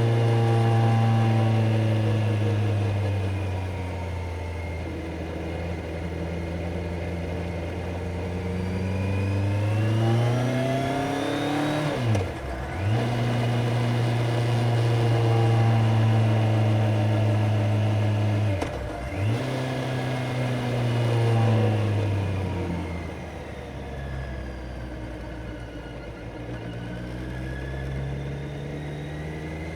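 Kawasaki Z900 motorcycle's inline-four engine pulling under way: it revs up, changes gear twice with a brief dip in pitch each time, holds steady, eases off with falling revs, then accelerates again near the end.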